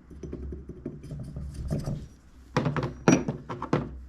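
A few sharp metal knocks and clicks from engine parts being handled and rocked on a workbench, most of them about two and a half seconds in, over a low steady hum.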